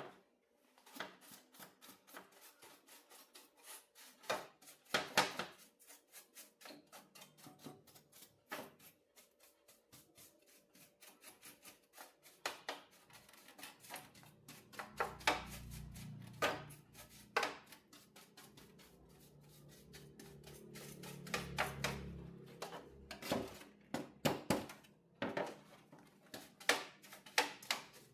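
Irregular clicks and taps of small tools and parts being handled during electronics repair work. A low hum swells up twice partway through.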